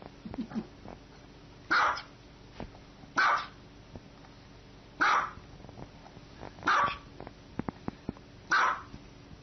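Small white dog barking: five short single barks spaced about one and a half to two seconds apart, with a few faint clicks between the fourth and fifth.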